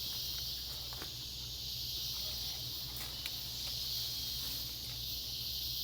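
Steady high-pitched drone of a rainforest insect chorus, with a few faint clicks.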